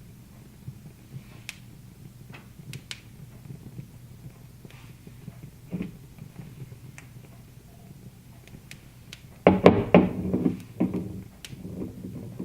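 Wood fire crackling in a fireplace with sparse, scattered pops over a low steady hum, and a louder low-pitched sound lasting about two seconds near the end.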